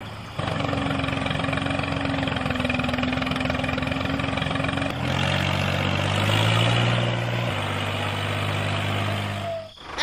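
A small vehicle motor running steadily with a constant hum. Its pitch shifts lower and fuller about halfway through and changes again a couple of seconds later, then drops away briefly just before the end.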